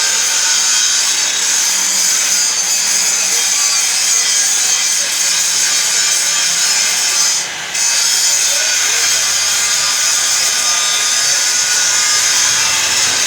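A power tool cutting with a steady, harsh hissing noise, high-pitched, breaking off for a moment about seven and a half seconds in.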